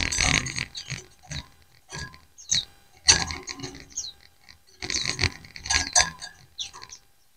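A group of white-eyes (pleci) calling back and forth in bursts of short, rising and falling chirps, with brief pauses between the bursts.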